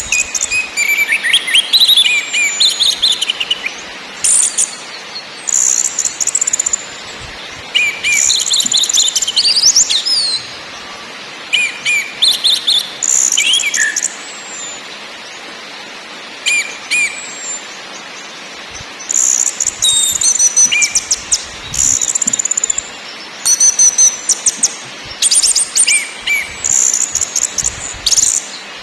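Orange-headed thrush singing: short phrases of a few whistled notes mixed with fast, high, buzzy chatter, repeated a dozen or so times with brief pauses between them.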